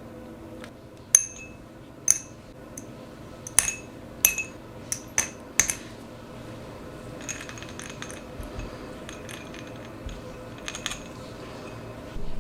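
Small metal parts clinking as they are handled and set down on a hard surface: about eight sharp, ringing clinks over the first six seconds, then a looser patter of light rattles, over a faint steady hum.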